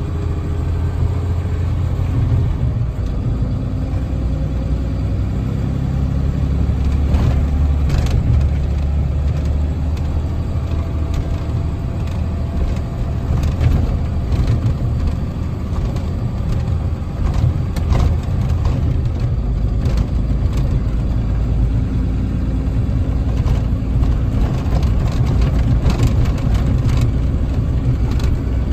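Box truck's engine running steadily with road noise while driving, with scattered light knocks and rattles.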